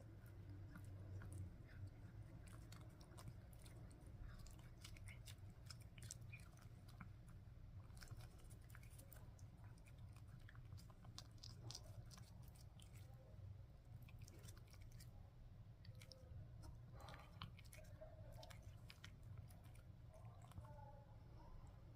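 A cat chewing pieces of melon, with many small wet clicks of its mouth and teeth.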